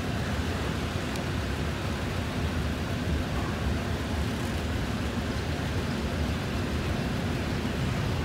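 Double-stack intermodal well cars rolling past on steel wheels and rail: a steady, even rumble, heaviest in the low end.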